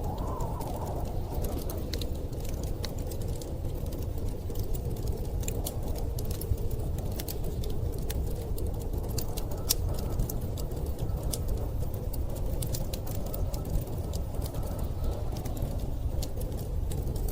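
Wood fire crackling, with many small sharp snaps and pops at irregular moments, over a steady low rumble of storm wind.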